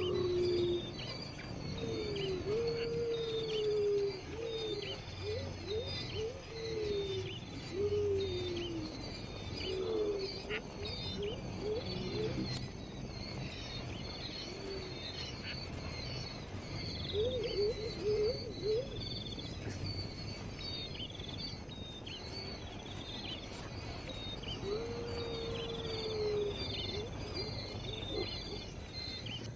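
Birds calling outdoors: groups of low, arching calls come and go, over a steady chorus of short high chirps from birds or insects.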